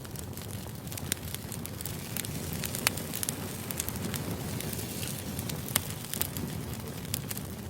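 Wood bonfire burning: a steady low rumble of flames with scattered sharp pops and crackles, two of them louder, about three and six seconds in.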